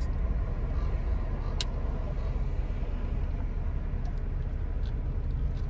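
Steady low rumble of a car's engine idling, heard from inside the cabin, with a single sharp click about one and a half seconds in.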